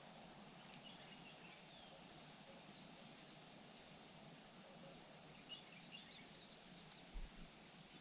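Faint outdoor ambience: a steady hiss with scattered short, thin, high bird chirps coming and going, and a brief soft low bump near the end.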